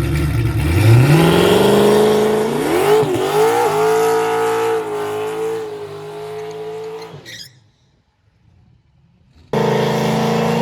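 Drag-racing engine run hard down the strip: its pitch climbs over the first two seconds, dips briefly at a gear change about three seconds in, then holds and slowly fades. It cuts off about seven and a half seconds in, and after a short silence another loud engine cuts in near the end.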